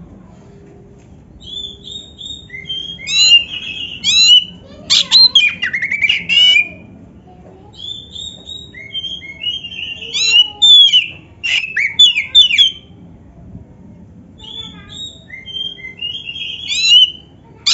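Oriental magpie-robin (kacer) singing loud, rapid phrases of whistles and trills, its song filled with canary-like passages. The phrases come in bursts separated by short pauses, over a faint steady hum.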